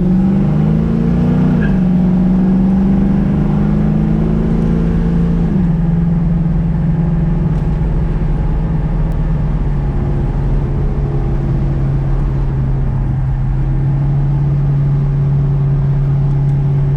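1967 Ford Mustang's 331 stroker small-block V8 pulling away: engine pitch rises, drops sharply at a gear change about a second and a half in and again about five and a half seconds in, then holds steady at cruise.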